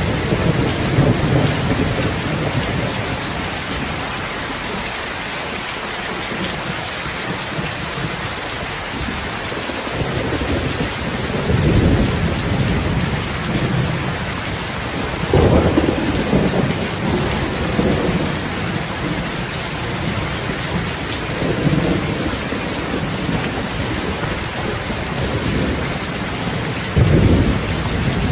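Heavy rain falling steadily, with low rolls of thunder swelling up several times.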